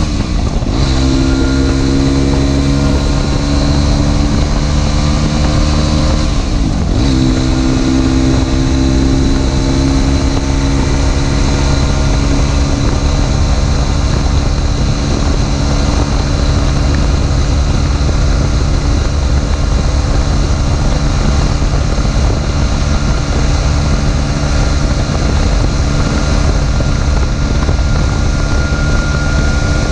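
Aprilia SX 125's single-cylinder four-stroke engine running loud through an Arrow exhaust with the dB killer removed. The pitch climbs and then drops at a gear change right at the start and again about seven seconds in, then holds a fairly steady drone.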